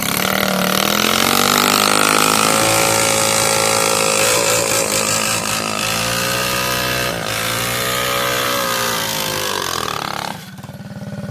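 Small mini bike engine running hard: its pitch climbs over the first couple of seconds, holds with small rises and dips, then falls away near the end.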